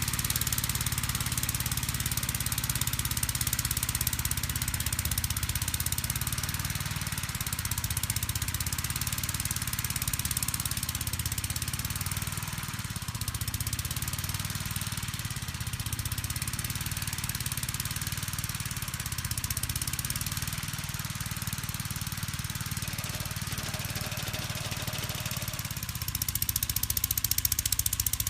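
1959 Gravely Model L's engine running steadily while it drives the snow blower, with a steady hiss above it. It gets louder for the last couple of seconds.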